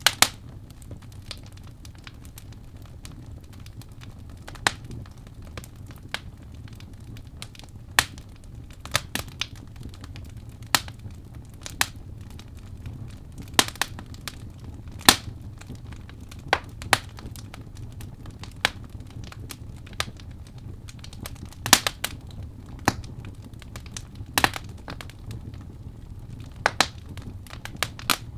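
Wood fire crackling in a fireplace: irregular sharp pops and snaps, a few every couple of seconds, over a low steady background.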